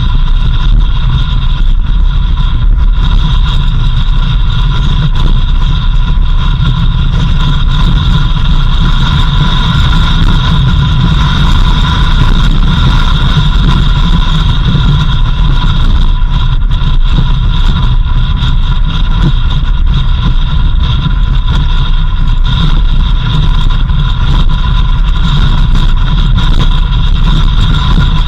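Vehicle driving along a dirt road: a steady, loud low rumble of engine and road noise, with steady high-pitched tones above it.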